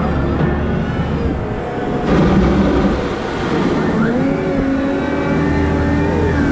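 Caterpillar 972M XE wheel loader working: a low engine rumble with whining tones that rise and fall in pitch as the machine works, and a louder surge of noise about two seconds in.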